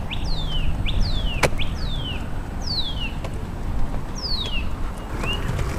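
A bird calling a series of clear whistled notes, each sliding downward, some with a short rising chirp between them, the notes spacing out toward the end. Wind buffets the microphone with a low rumble throughout, and there is a single sharp click about a second and a half in.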